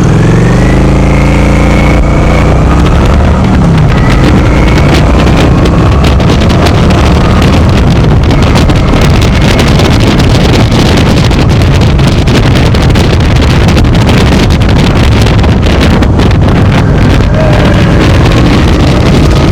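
Motorcycle engine pulling away, its pitch rising over the first couple of seconds, then running at riding speed under heavy wind noise on the microphone.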